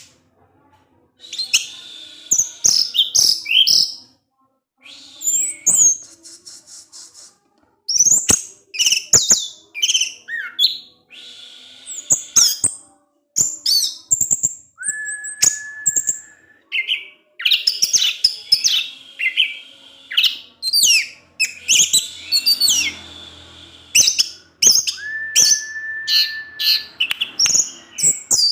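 Orange-headed thrush (anis merah) singing in a fast, varied run of high chirps, chips and sliding notes, the chattering 'ngecis-ngecip' style of song. Its phrases come in bursts with short pauses between them, and a long steady whistle comes twice, about a third of the way in and near the end.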